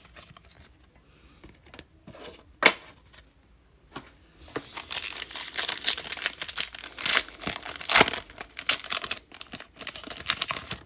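A trading-card pack's foil wrapper being torn open and crinkled, with a sharp click between two and three seconds in and a long stretch of crackly crinkling through the second half.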